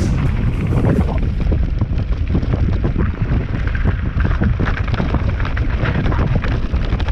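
Wind buffeting the microphone: a loud, steady, rumbling rush of air.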